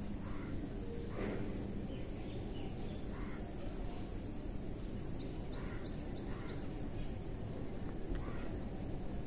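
Birds calling in short, harsh calls about half a dozen times, with a few faint high chirps, over a steady low background noise.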